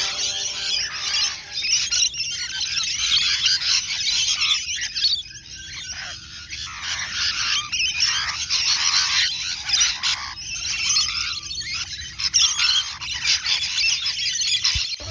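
Parrots squawking and screeching without pause, many calls overlapping.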